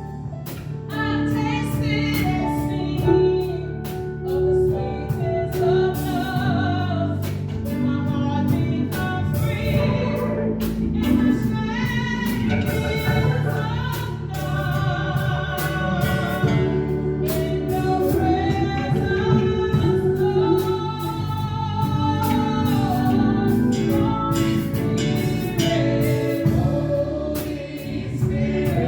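A group of singers and a band performing a gospel-style Christian worship song: sung melody over sustained low accompaniment with a steady drum beat.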